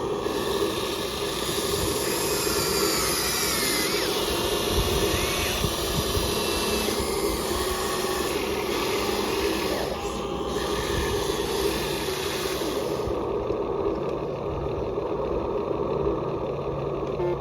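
Electric motors and gearboxes of radio-controlled construction models running: a steady mechanical whir with whines that rise and fall in pitch as the motors speed up and slow down.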